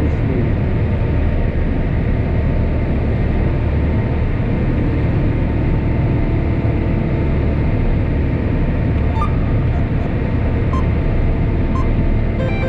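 Steady low rumble of a running engine at constant speed, with a few faint short beeps near the end.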